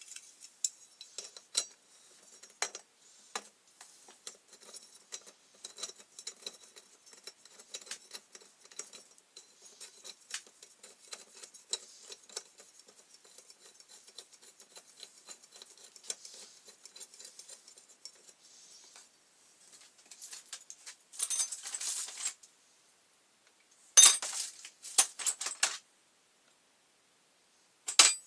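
Small metal clinks and taps from refitting a sharpened rotary mower blade and its bolt with a spanner, with a few louder clattering bursts in the last several seconds.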